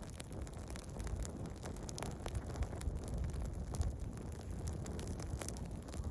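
Wood campfire burning with frequent small crackles and pops over a low, steady rumble of flames and wind on the microphone.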